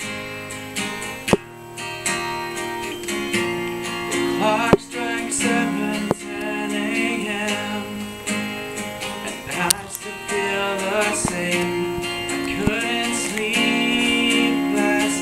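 Acoustic guitar strummed and picked as the instrumental intro of a song, with a few sharp clicks along the way.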